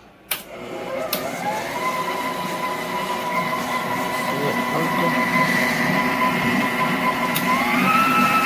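COOKLEE 660 W stand mixer switched on with a click, its motor whine rising as it spins up and then running steadily while it mixes butter, eggs and sugar in the bowl. Near the end the whine steps up in pitch as the speed is raised.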